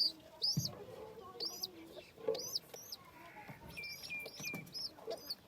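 Baby chicks peeping in a run of short, high, repeated chirps, with lower clucking calls underneath.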